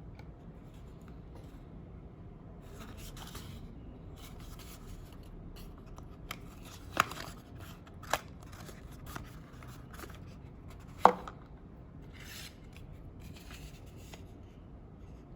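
Packaging being handled and opened by hand: intermittent rustling and scraping with a few sharp clicks, three of them loud.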